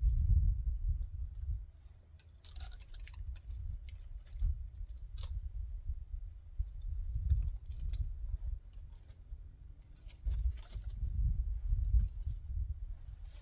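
Wind gusting against the microphone as a low, rising and falling rumble, with scattered sharp crackles and snaps over it, in clusters a few seconds apart.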